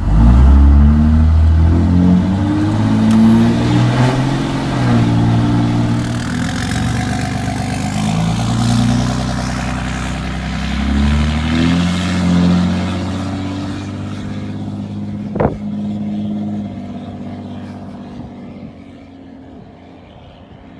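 2006 Ram 3500's 5.9-litre Cummins diesel, straight-piped through a 4-inch exhaust with an axle dump, being revved up and down several times. It then settles to a lower, steady run that grows quieter over the last few seconds, with a sharp click about fifteen seconds in.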